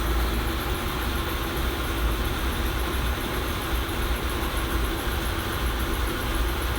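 Steady low rumble with a high hiss, unchanging throughout: outdoor background noise with no distinct event.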